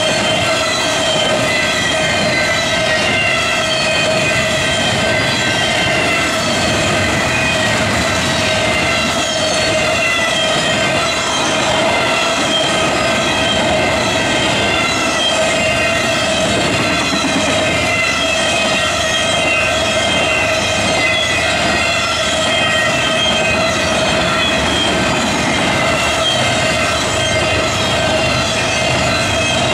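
BNSF double-stack intermodal freight train rolling past close by: continuous loud rolling noise of the cars on the rails. Over it runs a steady mid-pitched hum and many high, wavering squealing tones from the wheels.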